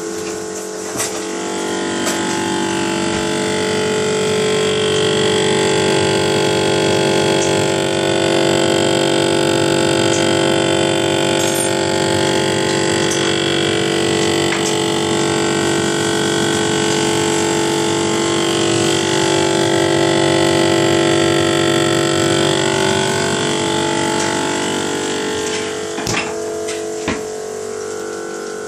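General Electric GTE22IBTJRWW refrigerator running with a loud, steady rattling buzz of several held tones that swells over the first few seconds and eases off near the end, with a few clicks near the end. The rattle is one the owner traces to a failing evaporator fan motor.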